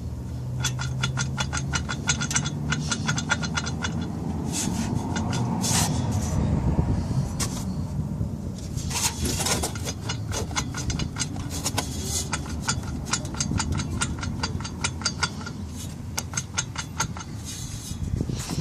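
Mechanical rattle: a rapid, even train of sharp clicks, several a second, over a low engine-like hum.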